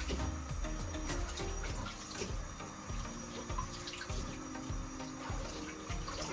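A tap running water into a sink, with background music playing.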